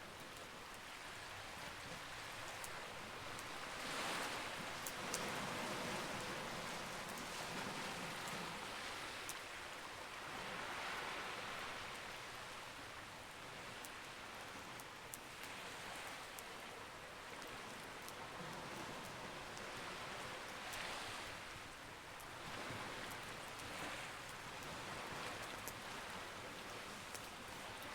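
Steady rush of sea waves that swells and eases every several seconds, with sparse sharp crackles and pops from a wood campfire.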